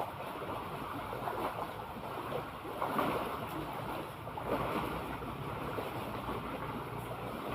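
Sea water washing and splashing in irregular swells.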